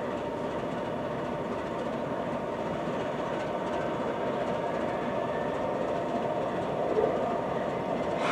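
Norfolk Southern freight train rolling past: a steady rumble of wheels on rail, with a faint thin steady tone above it.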